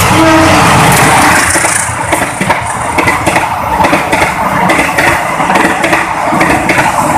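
Train passing close by: a loud, steady rush of wheels on rail with rapid clicking and clatter.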